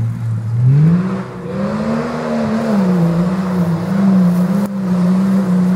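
Jeep Cherokee XJ engine under hard throttle off-road: it revs up about a second in, dips briefly near the middle, then holds at high revs with a slight rise and fall.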